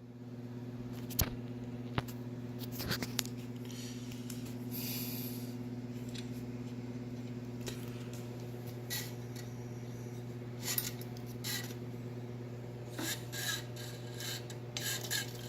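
Parts of a partly dismantled Wahoo Kickr bike trainer being handled: scattered light clicks and short scrapes of metal parts over a steady low hum.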